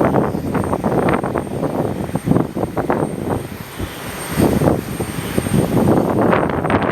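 Aircraft engines running, mixed with heavy wind buffeting on the microphone that comes in uneven gusts. Thin, steady high tones sit above the noise.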